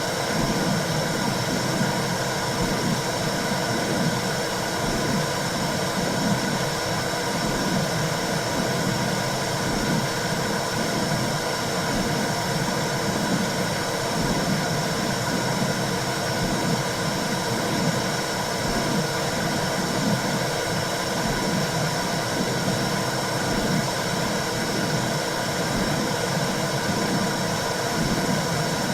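Womb-sound white noise: a steady hiss with a low, rhythmic whooshing pulse underneath, imitating the sounds a baby hears in the uterus.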